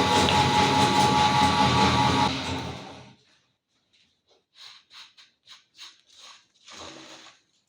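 Electric meat grinder's motor running with a steady whine, switched off a little over two seconds in and running down within a second. Then a series of about eight short, quieter scraping or clicking sounds.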